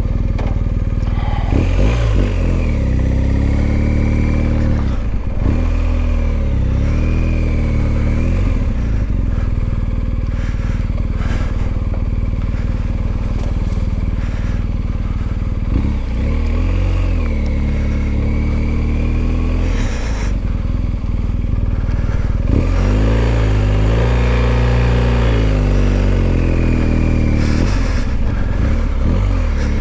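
Adventure motorcycle, in its Enduro Pro riding mode, running under way on a loose trail. Its engine revs climb and drop again and again as the throttle is opened and closed, with brief dips at the gear changes.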